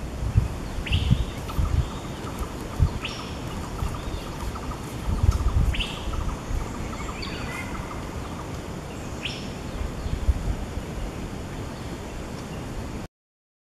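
Asian fairy-bluebird calling: four short, rising whistled notes spaced a few seconds apart, over a low rumbling background noise.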